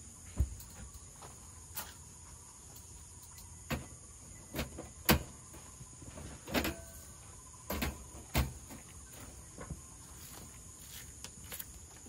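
Irregular knocks and clicks, about ten of them, the loudest about five seconds in, over a faint steady high-pitched tone.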